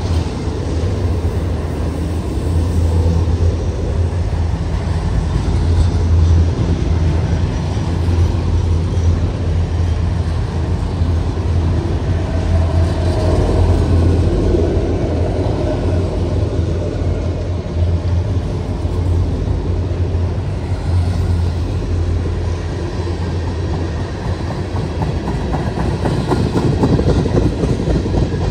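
Freight cars of a Norfolk Southern train rolling past at steady speed: a continuous rumble of wheels on rail, with rapid wheel clicks growing plainer near the end.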